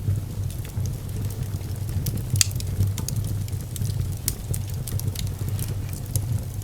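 Wood fire in a fireplace crackling: irregular sharp pops and snaps, two louder ones a couple of seconds apart, over a steady low rumble.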